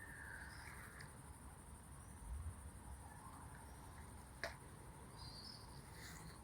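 Faint steady chirring of night insects, with a few short chirps. There is a sharp click about four and a half seconds in and a soft low thump a little past two seconds.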